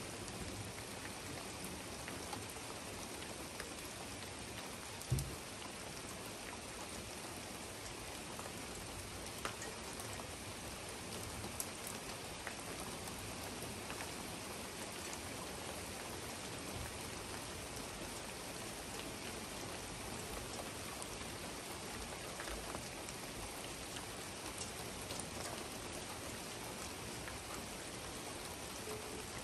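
Steady rain falling, an even hiss with scattered drop ticks, and a single brief low thump about five seconds in.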